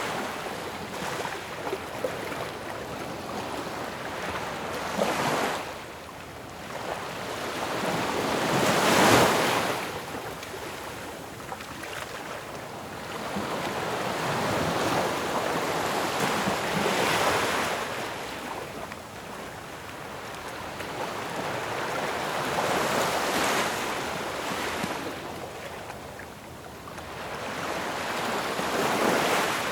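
Ocean waves breaking on a shore, a steady rush of surf that swells and ebbs as each wave crashes, with the biggest break about a third of the way in.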